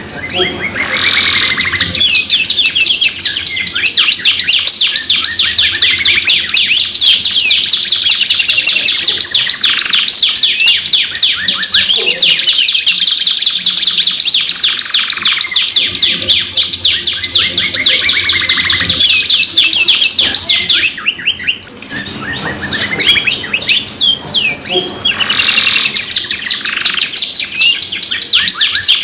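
Domestic canaries singing long, fast rolling trills and chirps without pause, briefly dropping off about 21 seconds in before the song picks up again.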